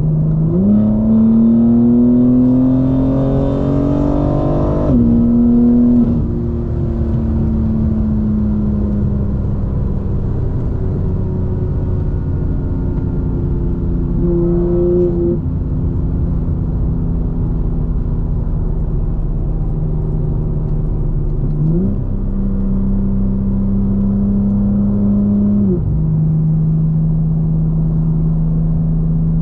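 Straight-piped BMW M4 Competition's twin-turbo inline-six accelerating, its note rising for about five seconds until an upshift drops the pitch, then settling into a steady cruise. Near the three-quarter mark the note steps up for about four seconds and then drops back to cruise.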